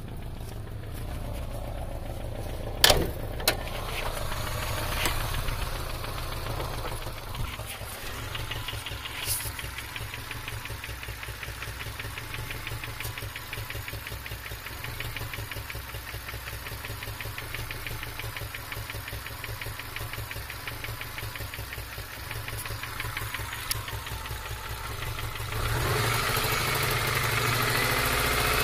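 2002 Subaru Legacy's EJ253 2.5-litre flat-four engine idling with a fast, even knock, a new noise that followed a pop and a stutter; the owner wonders whether it is jumped timing, rod knock or a bad tensioner. A sharp click comes about three seconds in, and the engine noise grows louder near the end.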